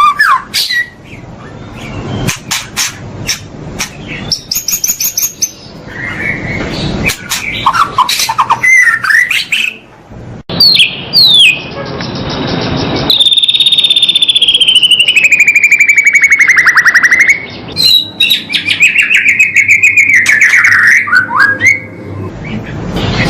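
A masteran track of recorded songbird calls spliced one after another: quick chirps and short rising whistles, then about halfway through a long trilled note that slides down and back up for several seconds, followed by more chirping phrases.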